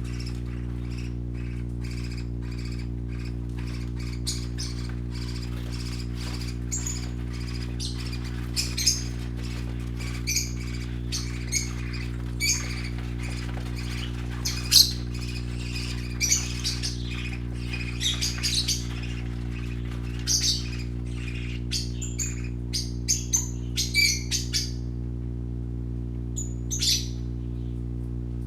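Young parakeets chirping and squawking in quick, short calls, busiest in the middle and thinning out near the end. A steady low hum runs underneath.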